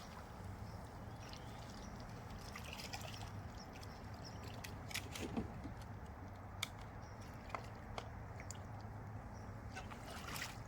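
Faint water sloshing and trickling, with a few light clicks scattered through, over a low steady hum.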